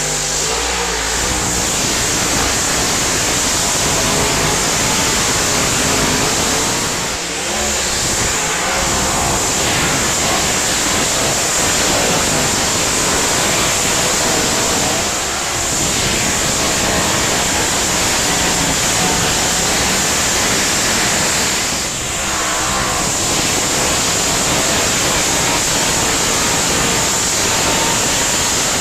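Pulling tractor's engine running loud and hard at full throttle through a pull, with brief dips in level about seven, fifteen and twenty-two seconds in.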